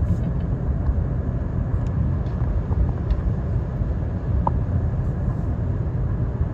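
Steady road and engine noise of a car driving along, heard from inside the cabin: an even low rumble with no change in pitch.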